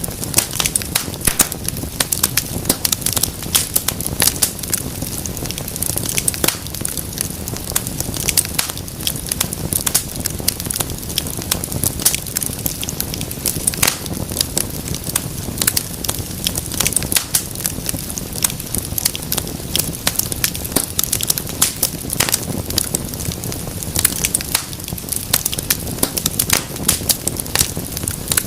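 Wood fire crackling steadily in a fireplace: a dense, irregular run of sharp pops and snaps over a low, steady rumble of burning.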